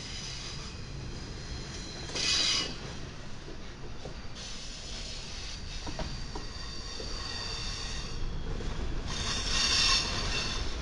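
Double-stack intermodal freight train rolling past, a steady rumble of steel wheels on rail. Two short bursts of high wheel squeal or screech, about two seconds in and again near the end, are the loudest sounds.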